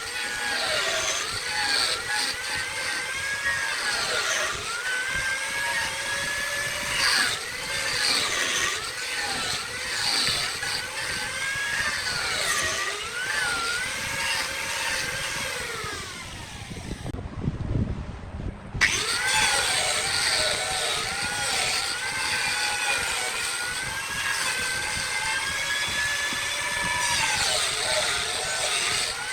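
Wood lathe running with a tool cutting the spinning wood: a machine whine that wavers up and down in pitch over the cutting noise. It breaks off for about two seconds just past the middle, with a low rumble, then resumes.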